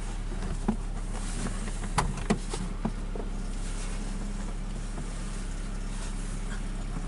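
Nissan Primera engine idling steadily at about 1000 rpm, heard from inside the car's cabin. A few short, sharp clicks come between about one and three seconds in.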